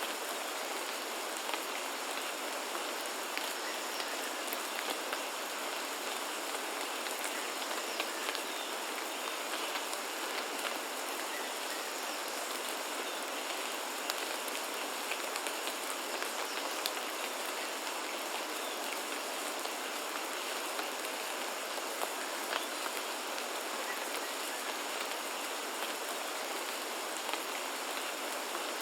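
Steady rain falling, a constant hiss with many small drops ticking on surfaces.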